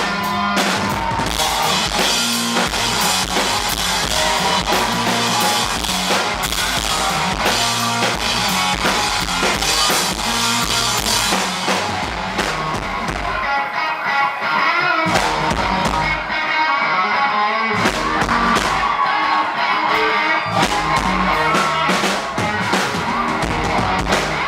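A live rock band playing a loud instrumental interlude, with a full drum kit and electric guitar; the drums and low end thin out for a few seconds around the middle before the band comes back in full.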